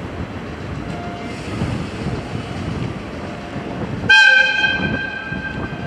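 A train running on the rails with a steady rumble. About four seconds in, a locomotive gives a short, shrill whistle that fades away over the next second or so.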